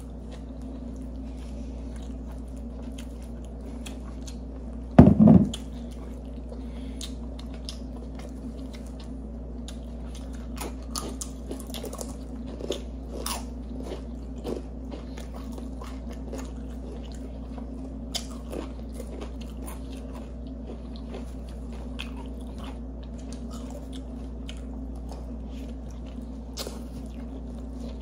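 Close-miked chewing and biting of sub sandwiches and crunchy chips, scattered small crunches and mouth clicks over a steady low hum. A brief, loud low-pitched sound about five seconds in.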